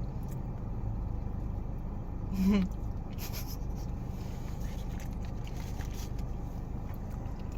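Close-up eating sounds: quiet chewing and mouth noises with a short hummed "mm" about two and a half seconds in, over a steady low hum in the car's cabin.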